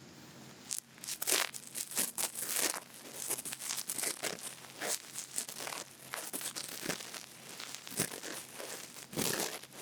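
Cotton bud rubbing and scratching in a microphone's ear for ASMR ear cleaning, a quick run of irregular close-up rustling strokes starting about a second in.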